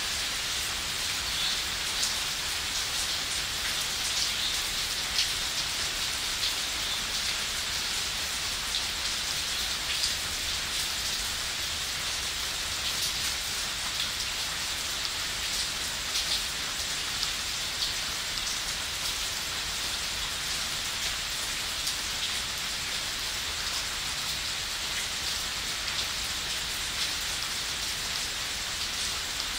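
Heavy rain falling steadily on leafy plants: a constant hiss with many brief, sharper hits of drops striking leaves close by.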